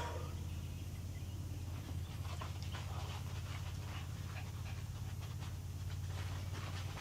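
A dog panting in quick, short, repeated breaths that start about two seconds in, over a steady low hum.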